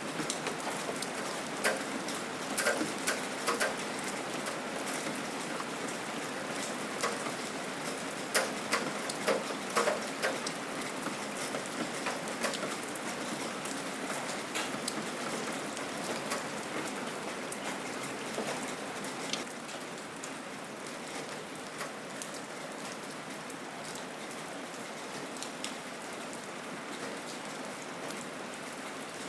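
Steady rain falling, a soft hiss with frequent sharp drips and drops landing close by. The close drops are thickest in the first half and thin out later, while the hiss carries on.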